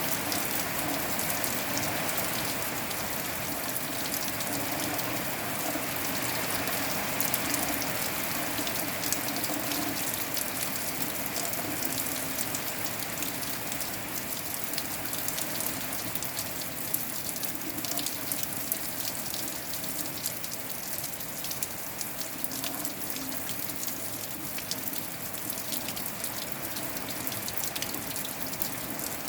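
Steady rain: an even hiss with a dense patter of single drops striking close by.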